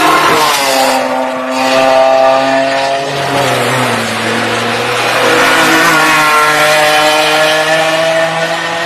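BMW M3 E46's 3.2-litre straight-six engine running hard on track. Its pitch drops about a second in and again around three to four seconds in, then holds and climbs slowly as the car drives through the corners.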